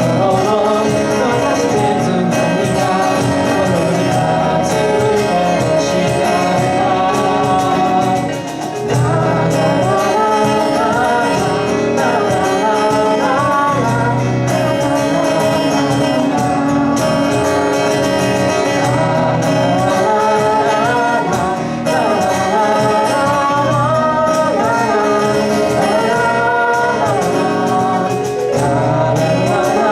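Live band performance of a pop ballad: two vocalists singing over electric guitar, drums and keyboard, with short dips in the music about eight seconds in and again past twenty seconds.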